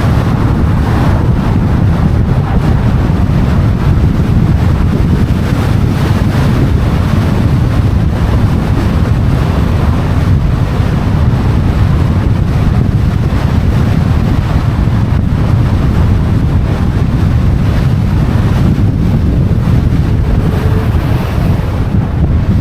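Wind buffeting the microphone, a loud steady low rumble, over city street traffic.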